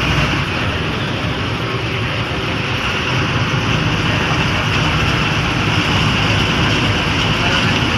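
KSRTC bus running steadily, its engine drone mixed with road and wind noise, with no change in pace.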